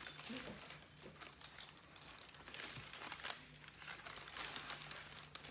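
Paper sandwich wrapper crinkling and rustling in irregular bursts as a Subway sandwich is unwrapped, with one sharp click right at the start.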